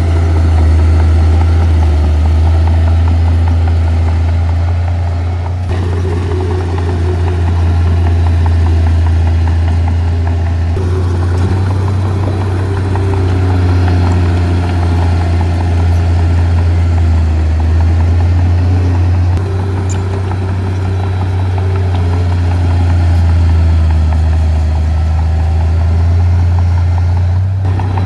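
Diesel engine of heavy earthmoving equipment running continuously, a steady deep low tone with shifting higher engine tones over it. The sound changes abruptly about 6 and 11 seconds in.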